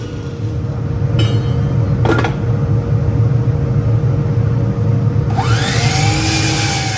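A woodworking power tool's motor running steadily. About five seconds in, loud cutting noise sets in with sweeping whines as the tool works the wood.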